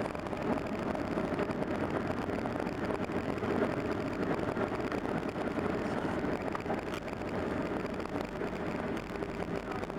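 Steady cabin noise inside a Boeing 737-600 on the ground just after landing: the CFM56-7 engines running and the airframe rumbling as the jet rolls out or taxis, with a faint steady hum.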